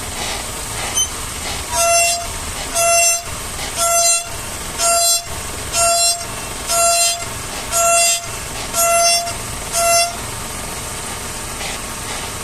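Nissan Versa steering squeaking as the wheel is turned: a short, high, tonal squeak repeating about once a second, nine times, starting about two seconds in.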